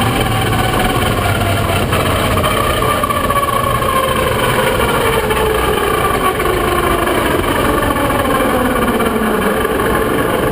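Pro Stock drag-racing truck's engine running loud, its pitch falling slowly and steadily over several seconds as the truck slows down.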